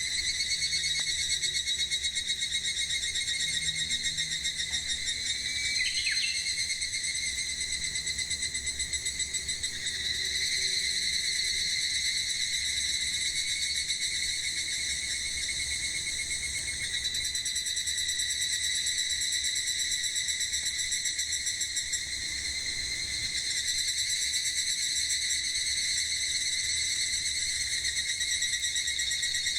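Cicadas singing, a steady high buzzing drone that carries on throughout, with a short bird chirp about six seconds in.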